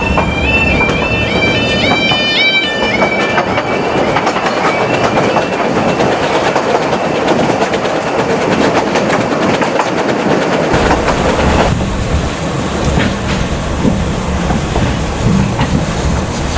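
Vale of Rheidol narrow-gauge train running on the rails, its wheels squealing in a wavering, high-pitched whine for the first three seconds or so as they grind against the rails on a curve, then a steady rattle and clatter of wheels on the track. A deeper rumble comes in about eleven seconds in.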